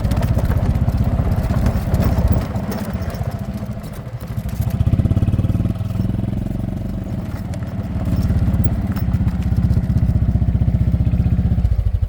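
Vehicle engine running with a rapid, even, low throb. It eases off twice and picks up again, as when driving and slowing on a farm track.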